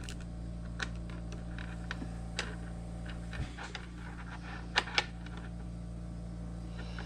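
Light metallic clicks and taps from parts of a Framon key machine being handled during reassembly, with two sharper clicks in quick succession about five seconds in, over a steady low electrical hum.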